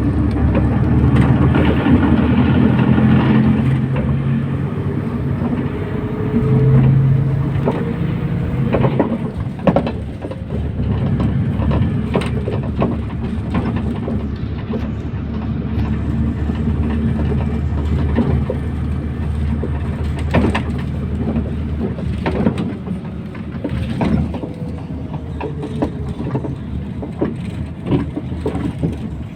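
MAZ 241 bus heard from inside the cabin while driving: the engine running, loudest in the first few seconds, with road noise and frequent short knocks and rattles.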